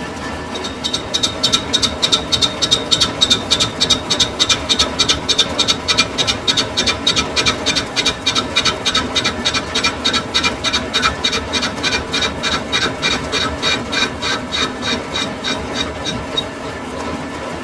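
Lathe cutting tool scraping against a spinning metal roller bush, a high squeal that pulses about four to five times a second as the workpiece turns, over the steady hum of the lathe. The cut begins about a second in and eases off near the end.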